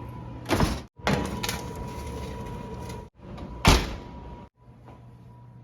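Two sharp thuds about three seconds apart, each like a door being shut, over a steady low hum.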